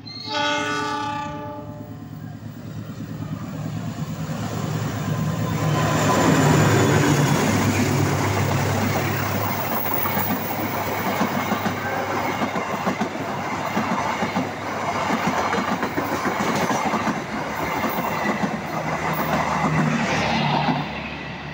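A diesel-electric passenger locomotive gives a short horn blast about a second long, then passes close by, working hard as it climbs a grade, its engine sound building to a peak a few seconds in. The passenger coaches follow, their wheels clattering rhythmically over the rail joints until the train fades away near the end.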